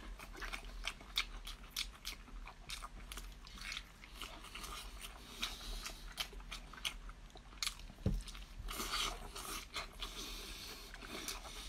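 Close-up eating sounds: wet chewing, smacking and biting, with many short sharp mouth clicks, as a man eats spicy chilli-braised meat and octopus. A soft thump comes about eight seconds in.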